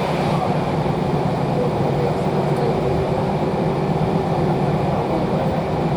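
Steady rumble of a railway passenger coach under way, heard from inside, its wheels running on the track.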